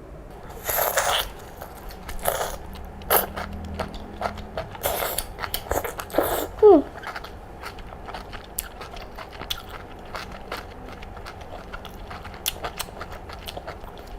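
Close-up eating sounds of a person eating sò mồng clams. There are several noisy bites over the first six seconds, a short falling squeak about six and a half seconds in that is the loudest moment, and then a long run of small clicks as she chews.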